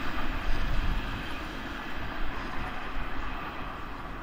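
Red double-deck regional train pulling away along the line, its rolling noise fading steadily as it recedes.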